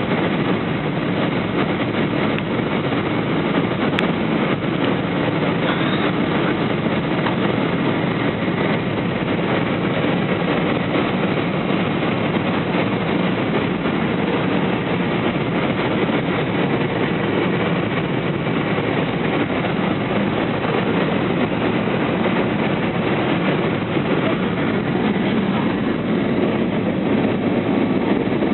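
Steady, unbroken roar and rumble of an Airbus A320 jet airliner.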